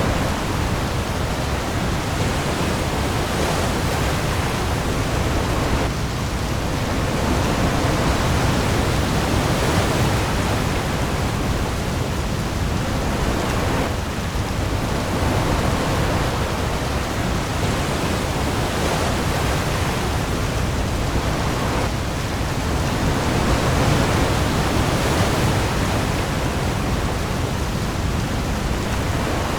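Heavy rain pouring onto the sea surface with waves, a steady dense hiss that swells gently every few seconds over a deep low rumble.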